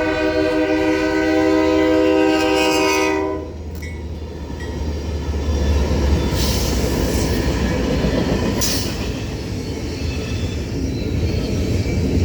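Union Pacific freight locomotive's air horn sounding one long blast, several notes held together as a chord, cutting off about three and a half seconds in. The rumble and rolling wheel noise of the passing double-stack freight train carry on after it, with two brief high hisses later on.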